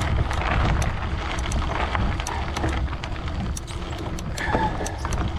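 Wind rushing over the microphone and tyre noise from a bicycle being ridden, a steady low rumble with scattered small ticks and one brief squeak about four and a half seconds in.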